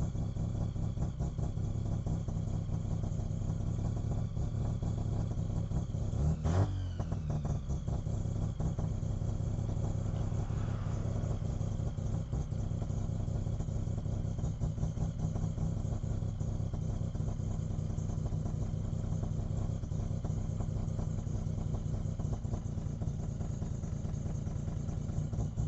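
Mazda RX-3's rotary engine idling steadily while being tuned at idle with a screwdriver under the bonnet, heard from inside the cabin. About six and a half seconds in there is one short blip in revs.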